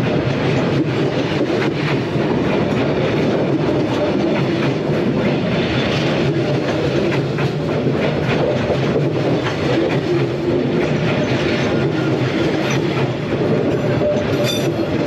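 Train running past close by, its wheels clattering steadily over the rails with a continuous rumble.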